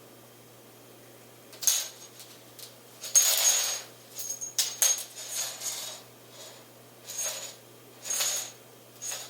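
A cat playing with a toy: a run of short scratchy rattling and rustling noises at uneven intervals, the longest and loudest about three seconds in.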